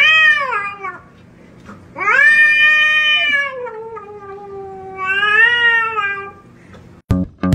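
A cat yowling in long drawn-out calls: one trails off about a second in, then a long call that falls in pitch, then a shorter one that rises and falls.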